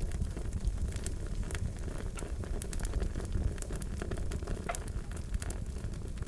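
Wood fire crackling, with irregular sharp pops and snaps over a steady low rumble of flame.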